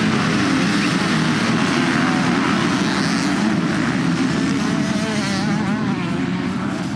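A pack of motocross bikes racing at high revs, many engines overlapping in a continuous buzz. Individual bikes' pitches rise and fall as they shift and pass in the last couple of seconds, and the sound begins to ease.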